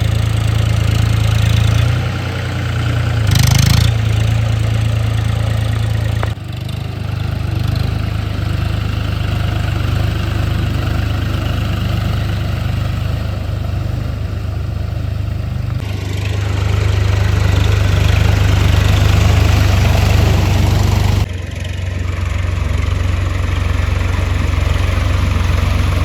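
Swaraj 735 FE tractor's three-cylinder diesel engine running steadily with a deep, even drone, with a brief hissy burst about three and a half seconds in. The sound jumps abruptly in level and tone three times.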